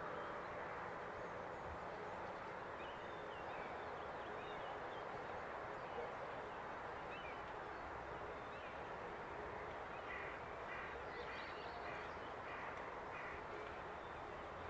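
Distant birds calling over a steady outdoor background hiss: a few faint chirps, then from about ten seconds in a run of about eight short calls, roughly three a second.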